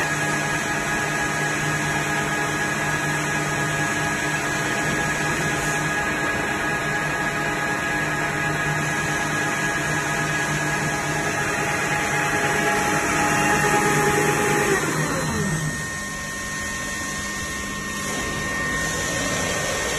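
Mini slitting and rewinding machine running steadily with an even motor whine, then slowing to a stop about three-quarters of the way through, its pitch sliding down as it winds down. A fainter steady hum with a thin high tone remains after it stops.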